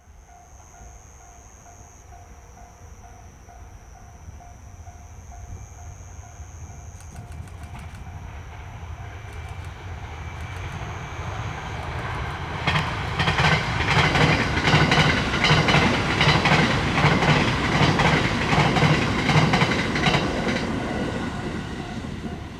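A Hokuriku Main Line train approaching and passing a level crossing. It grows louder over about twelve seconds, passes close by for several seconds with rapid wheel clatter over the rail joints, then fades. A repeating warning-bell tone is faintly audible at the start.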